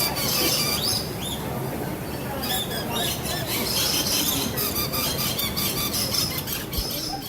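A flock of lorikeets chattering and screeching: many short, high calls overlapping.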